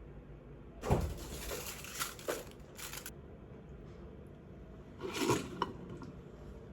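Handling noises: two bursts of rustling or crinkling, about a second in and again near five seconds, with a few light knocks.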